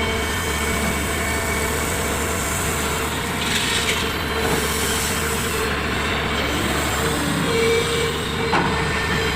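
Large Komatsu hydraulic excavator at work: its diesel engine runs steadily under a steady whine, with short bursts of clatter about three and a half and eight and a half seconds in.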